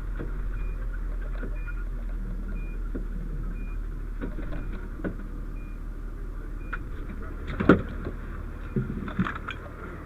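Fire engine running with a steady low hum while a short high beep repeats about once a second, stopping about two-thirds of the way in. Scattered clanks and knocks of equipment are heard, with one loud thump about three-quarters of the way through.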